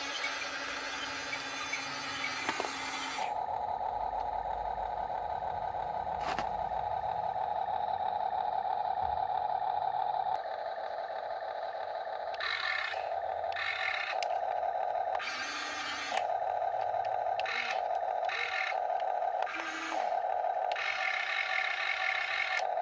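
Small electric motors and gearboxes of a Huina 1/14 RC excavator whining as its arm and bucket are worked. The whine holds steady for several seconds, then switches on and off in short spells, some with a grinding rasp, as different functions start and stop.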